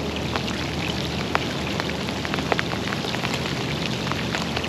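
Heavy rain falling steadily, with scattered sharp taps of drops striking close to the microphone.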